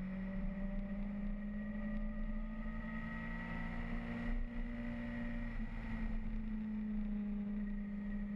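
Motorcycle engine running steadily at cruising speed, a constant drone whose pitch creeps up slightly and dips briefly about five and a half seconds in.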